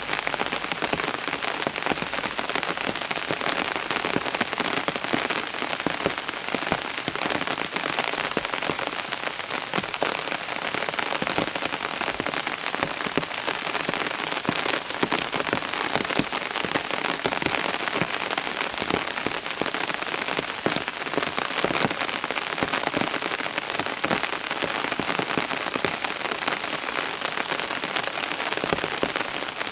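Steady rain falling, with many distinct individual drop hits scattered through it.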